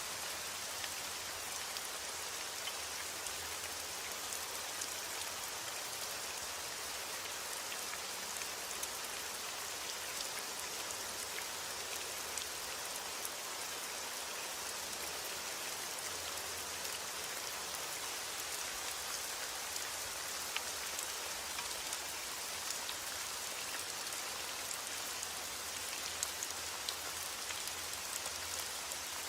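Steady rain falling on a surface: an even hiss dotted with many small, sharp drop taps.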